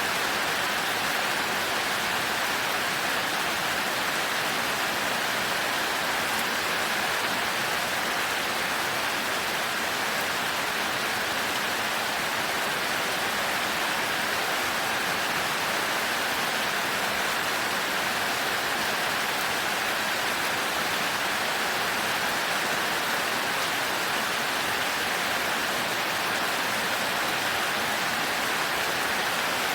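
Heavy rain falling steadily, an even hiss with no rises, drops or thunder.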